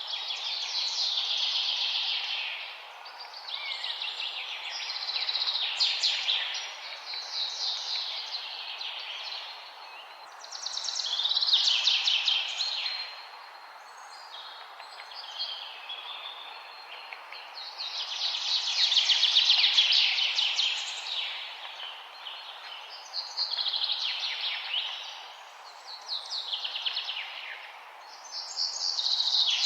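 Songbirds singing in a forest: repeated rapid, trilled song phrases a few seconds long, one after another, over a steady background hiss.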